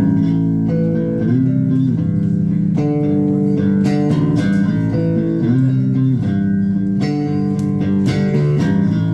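Live band playing a song's instrumental intro on guitar and bass guitar, kicking in abruptly with a riff that repeats about every four seconds.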